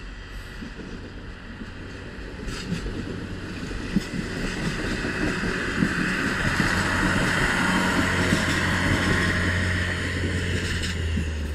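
Slovenian Railways diesel multiple unit passing close by, its engine running with a steady low hum under wheel and rail noise that grows louder to a peak in the second half. A few sharp knocks come from the wheels crossing rail joints.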